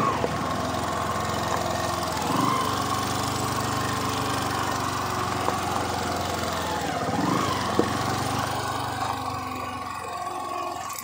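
Motorcycle engine running at low speed as the bike is ridden slowly, with two brief revs about two and seven seconds in.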